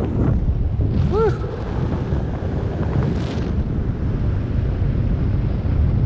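Wind buffeting the microphone of a paraglider pilot's camera in flight, a steady low rumble throughout. About a second in there is a brief pitched tone that rises and falls.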